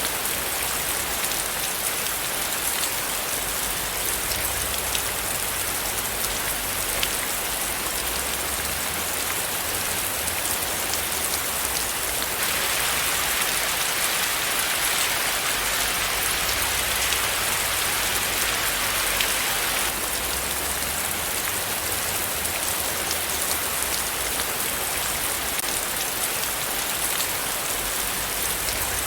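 Steady rain falling, a dense patter of many small drops. It grows a little louder for several seconds in the middle.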